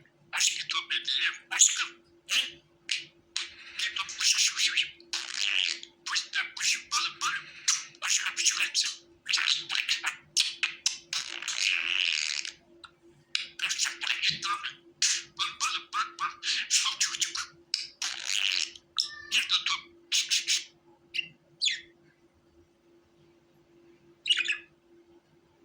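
Budgerigar chattering and warbling in quick, dense strings of high chirps and squawks, which thin out near the end to a couple of single calls. A faint steady hum runs underneath.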